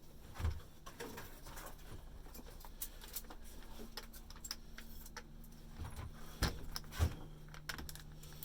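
Scattered metallic clicks, clinks and knocks as a reciprocating-saw blade is handled and fitted into the saw, the sharpest knocks about half a second in and near the end. A low steady hum runs under them.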